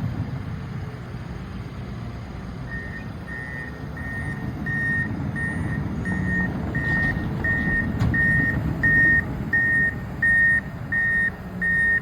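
A heavy construction vehicle's engine rumbling with its reversing alarm beeping steadily, about one and a half beeps a second. The alarm starts a few seconds in and grows louder as the vehicle backs up.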